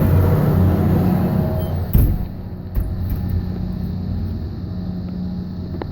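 A steady, low engine drone. A sharp click comes about two seconds in, after which the hiss falls away and the engine carries on more quietly.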